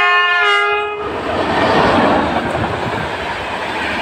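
Electric locomotive hauling a passenger train sounds its horn, which cuts off about a second in. The wheel and coach noise of the train passing close by follows.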